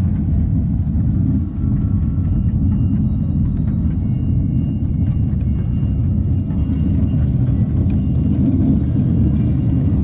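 Steady low rumble of a 7¼-inch gauge miniature train running along the track, heard from aboard the moving train.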